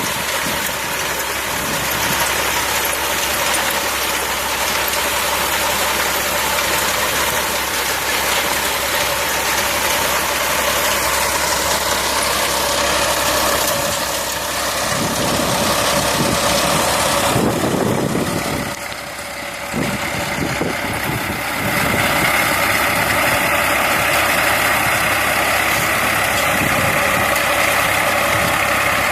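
Tractor engine running steadily under a front-mounted reaper binder driven from its PTO. The sound drops briefly a little past the middle, then comes back with a higher, steady whine.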